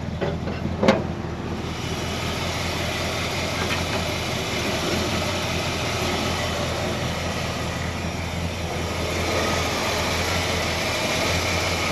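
1957 Chevrolet Bel Air engine idling steadily, a smooth-running idle that the owner says sounds good. A single sharp click comes about a second in.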